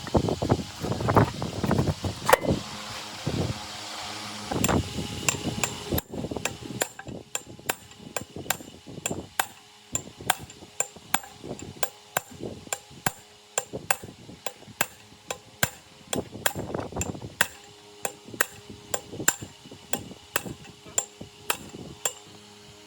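A hammer striking metal parts. About the first six seconds bring heavier, duller blows; after that comes a steady run of lighter, sharper strikes, roughly two a second.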